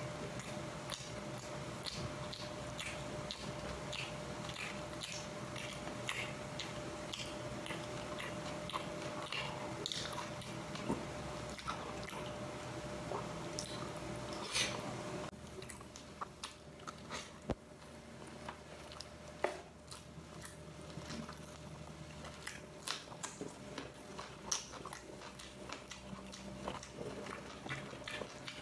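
A person chewing and biting food close to the microphone, with many small wet clicks and crunches. A steady background hum stops about halfway through.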